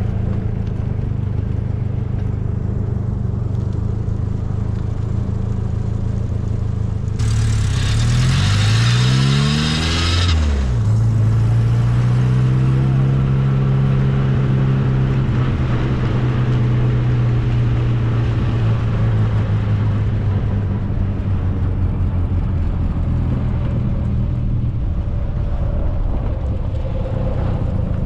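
1275cc MG Midget's four-cylinder engine running steadily at road speed in the open car, with road and wind noise. About seven seconds in, a louder rush with a climbing engine note lasts about three seconds, then the engine settles back to a steady note.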